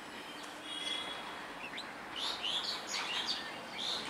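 Small birds chirping: a run of short, high calls in the second half, over faint steady outdoor background noise.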